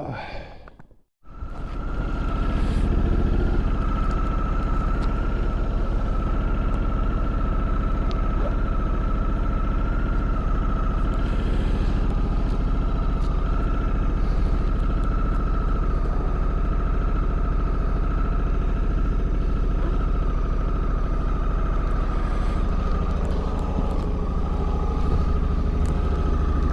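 Honda Africa Twin Adventure Sports parallel-twin motorcycle ridden at a steady speed: a constant engine and road rumble with a steady high whine over it. It starts abruptly about a second in.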